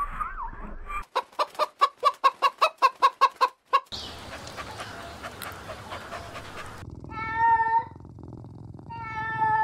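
Chicken clucking in a rapid run of about a dozen short clucks, followed by background noise and two longer, level-pitched animal calls near the end.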